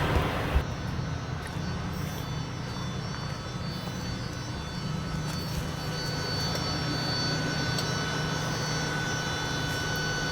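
A short knock about half a second in, then a steady low engine drone with a faint high whine, typical of a semi-truck's diesel engine running.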